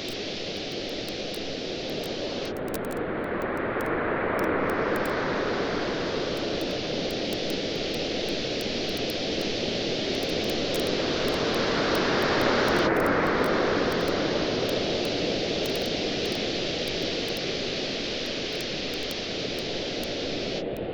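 Waves washing in on a beach, swelling twice in slow surges, with a wood campfire crackling lightly throughout.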